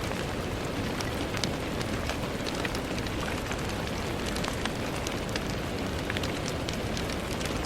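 Steady rain on a window: a constant hiss with scattered sharp ticks of single drops striking.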